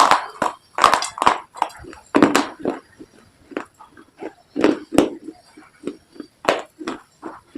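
Close-miked crunching as brittle slate pencil and baked clay pieces are bitten and chewed. The crisp crunches come irregularly, one to three a second.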